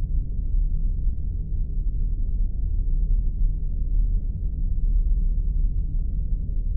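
Spaceship ambience sound effect: a steady deep rumble with the weight in the lowest bass, with faint scattered crackles above it.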